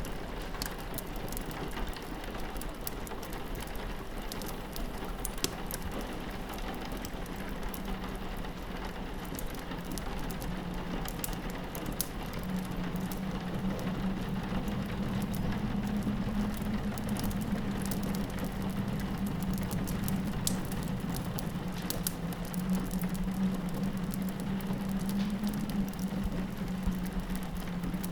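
Rain pattering on a window mixed with a crackling fireplace, with many small sharp pops and ticks. A low steady drone comes up about twelve seconds in.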